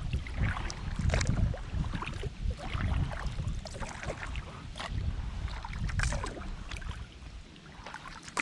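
Kayak paddling on a river: the paddle blades dip and splash about once a second. Under them is a gusty low rumble of wind on the microphone. The strokes thin out near the end.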